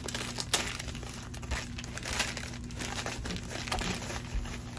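Packaging crinkling as items are handled and unwrapped: a steady run of irregular small crackles.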